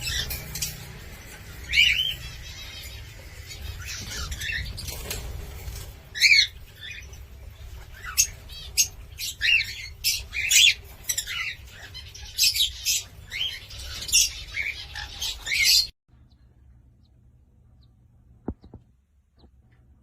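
Cockatiel calling: a quick run of short, sharp chirps and whistles, some sliding up or down in pitch. It cuts off suddenly about three-quarters of the way through, leaving near quiet with one faint click.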